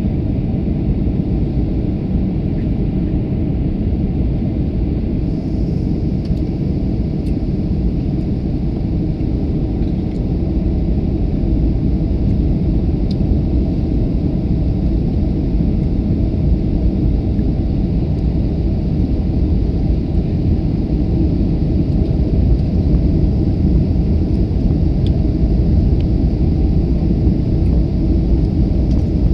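Airliner cabin noise: a steady low rumble of engines and airflow heard from inside the passenger cabin, growing slightly louder over the last third.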